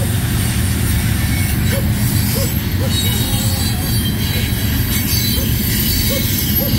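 BNSF unit tank-car freight train rolling past: a steady, heavy rumble of wheels on rail with a thin, high wheel squeal above it.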